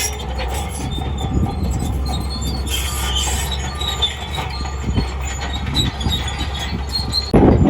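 Shantui DH17C2 crawler bulldozer at work: its engine runs with a steady low rumble while the steel tracks squeal and clank. Near the end the sound suddenly grows louder and rougher.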